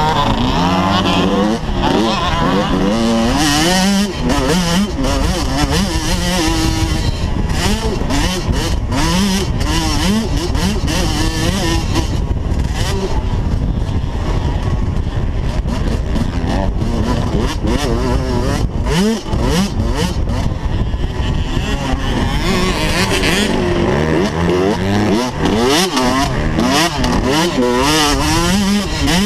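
Motocross dirt bike engine revving hard, its pitch climbing and dropping again and again as the rider opens and closes the throttle and shifts gears around the track.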